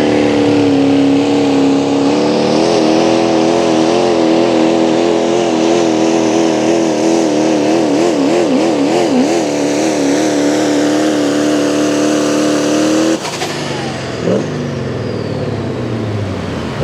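Pro stock diesel pulling truck running at full throttle with a steady high engine pitch that wavers up and down around the middle. About thirteen seconds in the throttle is cut suddenly, and the engine drops to a lower, falling sound while a high whine winds down.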